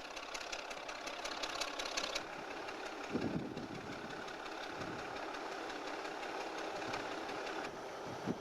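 Engine of a self-propelled crane running steadily, with a rapid mechanical clatter for the first two seconds and a couple of low thumps about three and five seconds in.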